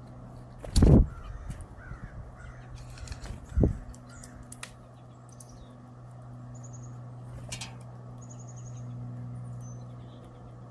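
Crows cawing at a bird feeder, with two loud thumps, about a second in and again after three seconds, and faint high chirps of small birds over a steady low hum.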